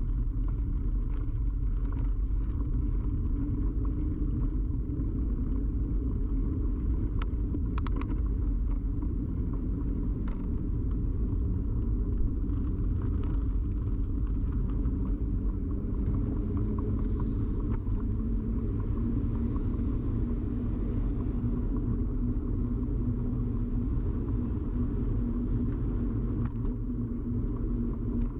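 Steady low rumble of a bicycle ride picked up by a camera fixed rigidly to the bike: tyre and frame vibration carried straight into the microphone. There are a few sharp clicks about seven to eight seconds in and a brief hiss near the middle.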